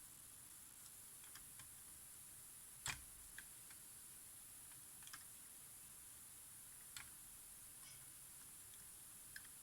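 Near silence with a handful of faint, sharp clicks and taps from small hand tools at work on a camera's flex cable, the loudest about three seconds in.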